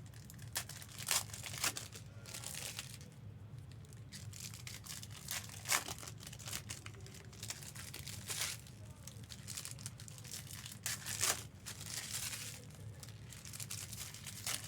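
Trading card packs being opened and handled: wrappers crinkling and tearing in irregular rustles and snaps, the sharpest about a second in, near six seconds and about eleven seconds in. A steady low hum runs underneath.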